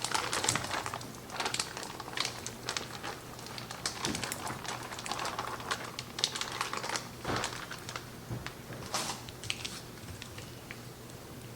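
A kitchen utensil scraping and clicking against a pan as thick cornbread dressing is spread into it: irregular short scrapes and clicks, tailing off toward the end.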